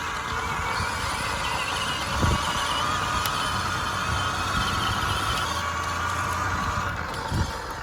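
Electric motors of two Stacyc kids' electric balance bikes whining steadily under full throttle, with a low rumble of tyres over the ground.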